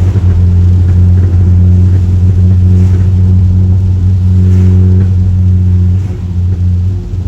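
Straight-piped exhaust of an Audi A3 8P, muffler and resonator deleted, running loud with a steady deep note, easing off about six seconds in.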